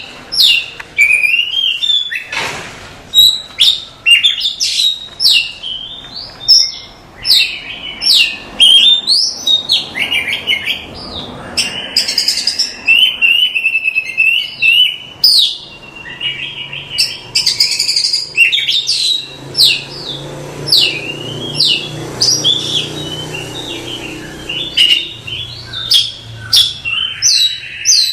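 Oriental magpie-robin singing a continuous, varied song of loud whistles, quick sweeping notes and rapid chattering phrases, with no pauses.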